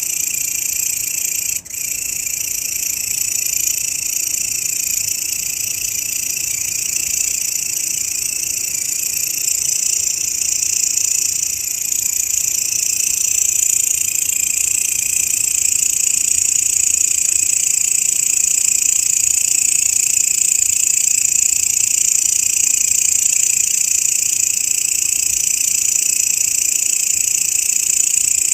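Grasshopper stridulation: a continuous, dense high buzzing chorus that stops for an instant about a second and a half in, then grows slightly louder about halfway through.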